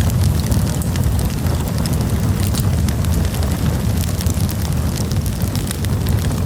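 Wood campfire burning, with a steady low roar under frequent irregular crackles and small pops.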